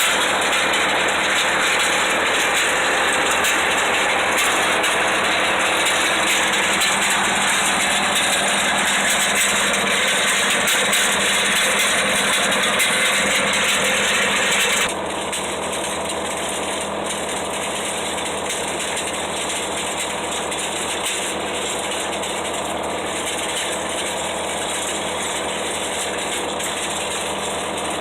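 Riding lawn mower engine running steadily while it pulls a homemade box blade with ripper teeth through a gravel driveway, with a constant mechanical rattle. About halfway through, the sound abruptly steps down in loudness.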